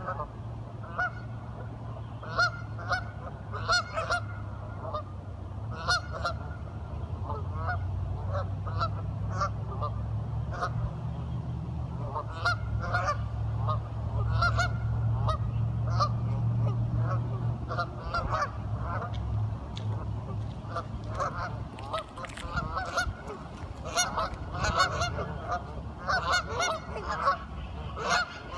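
A flock of ducks calling, with many short nasal calls overlapping several times a second, over a steady low hum.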